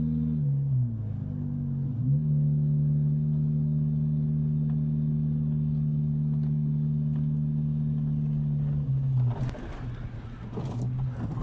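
A vehicle's engine droning steadily as picked up by a dashcam, its pitch dipping and recovering twice near the start like gear changes. About nine seconds in, the drone gives way to a rough burst of rattling noise.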